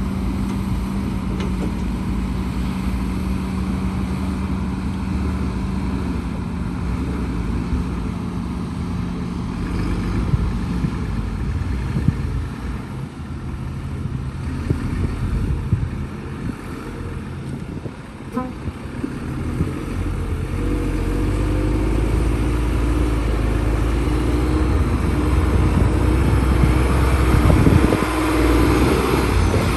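Heavy diesel engines of earthmoving machinery running: an excavator and dump trucks. The engine noise is steady at first and grows louder in the last third, with a higher engine note coming in.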